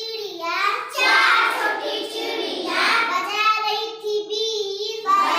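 A young child singing a Hindi nursery rhyme about a flying bird, in a high voice with held, bending sung phrases and no accompaniment.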